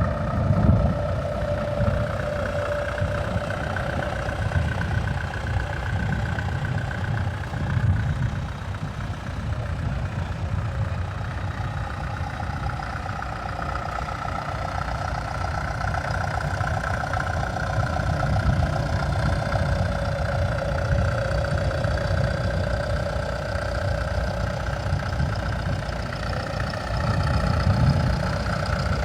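Tractor engine running steadily, with a faint wavering whine over its low rumble.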